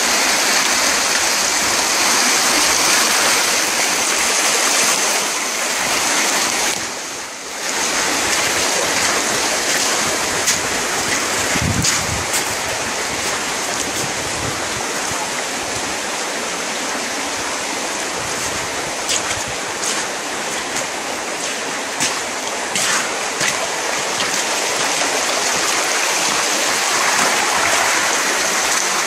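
Floodwater rushing: a steady, loud hiss of flowing water that dips briefly about seven seconds in.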